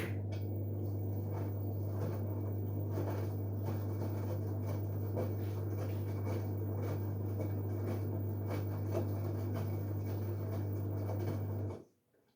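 LG Direct Drive washing machine giving a steady low electrical hum, with faint irregular ticking over it, that switches on abruptly and cuts off abruptly after about twelve seconds.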